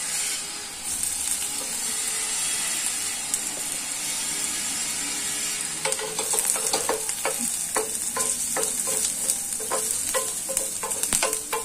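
Chopped garlic and ginger sizzling in hot oil in a stainless steel frying pan. About six seconds in, a wooden spatula starts stirring, scraping and knocking against the pan two or three times a second.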